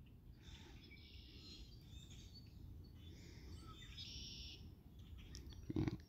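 Faint bird calls, several scattered calls over the first four seconds or so, over a low steady outdoor background rumble.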